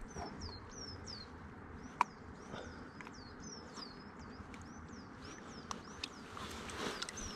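A small songbird calling over and over, a quick run of short high chirps, over a faint steady hiss of running river water. A single sharp click about two seconds in.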